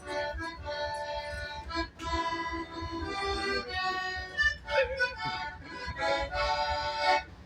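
Instrumental break of a cowboy song played on a free-reed instrument: sustained chords that change about once a second, with short breaks about two seconds in and again near five seconds.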